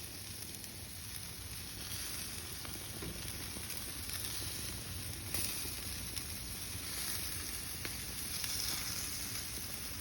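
Chicken wings sizzling as they cook: a steady hiss with a few faint ticks.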